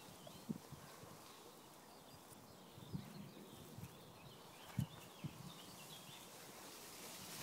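Faint birdsong, with short chirps scattered throughout over a quiet outdoor background. A few soft, low thumps stand out, the loudest about five seconds in.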